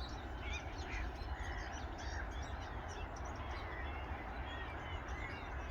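A large flock of birds on the lake calling at once, many short overlapping calls over a steady low rumble; really loud.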